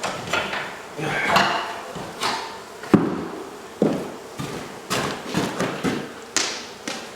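A string of irregular knocks and thumps, like hard objects being handled and struck, the sharpest about three seconds in.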